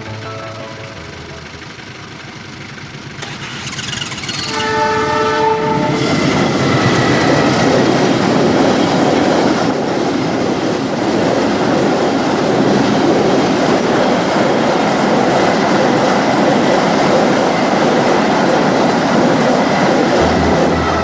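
A train horn sounds, one held chord of about two seconds, about four seconds in. The train then passes close by at speed: a loud steady rush with wheels clattering over the rail joints.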